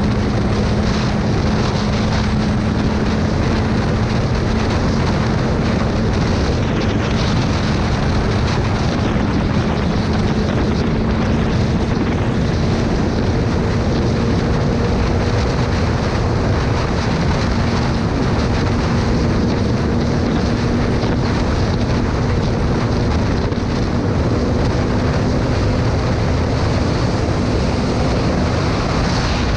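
Motorcycle engine running steadily at cruising speed under a heavy rush of wind over the microphone; the engine's hum climbs slowly in pitch.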